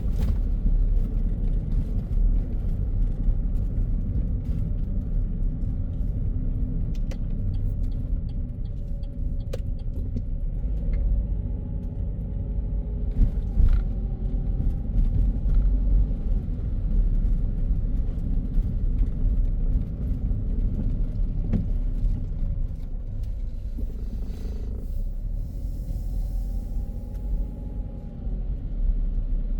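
Car driving on a city road: a steady low rumble of tyres and engine, with faint clicks and passing tones now and then.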